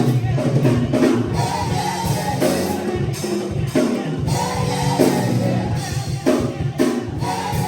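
Church gospel music: voices singing repeated phrases over a band with bass and drums.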